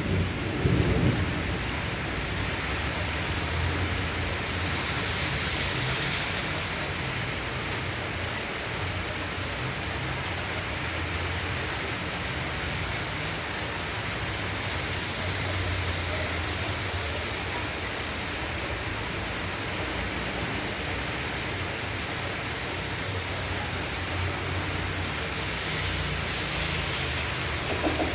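Heavy tropical downpour of rain pouring steadily, with low thunder rumbling on and off. A louder thunderclap dies away in the first second.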